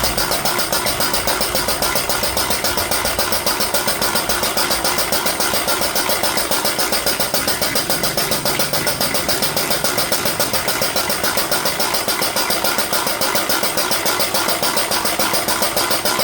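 Graco Husky 515 air-operated double-diaphragm pump running on test, its air valve exhausting in a rapid, even pulse that holds steady.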